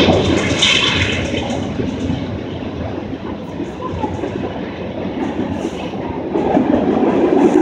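Freight train rolling past at about 45 mph, its steel wheels rumbling and clacking over the rails. Loudest at the start, it eases a little in the middle and swells again near the end.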